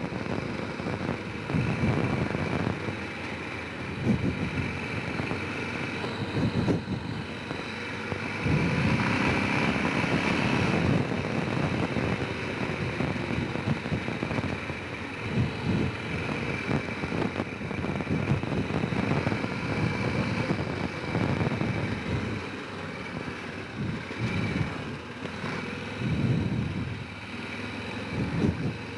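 Honda Rincon 650 quad's single-cylinder four-stroke engine running under way, its pitch and loudness rising and falling with the throttle, loudest for a few seconds around a third of the way in.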